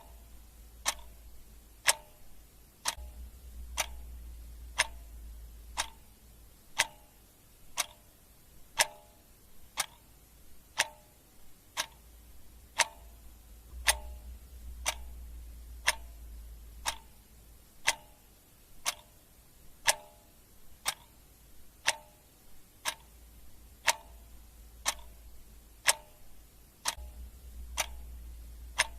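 Clock ticking steadily, about one tick a second, with a faint low rumble underneath.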